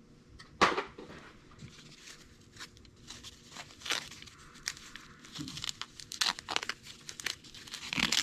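Packing material being torn and crinkled as a box is unpacked: irregular rustles and rips, with a sharp tear a little over half a second in.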